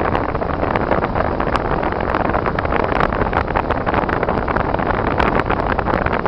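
Steady road and tyre noise from a car driving on snowy, icy roads, with many scattered small ticks.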